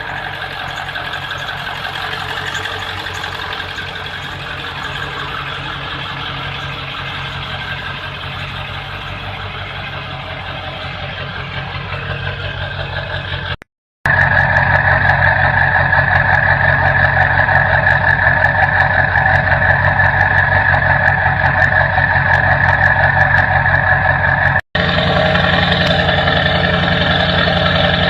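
A 1999 Ford F450's 7.3-liter Powerstroke V8 diesel running steadily with a fast, even pulse. The sound cuts off abruptly and restarts about 14 seconds in, louder afterwards, and cuts again near 25 seconds.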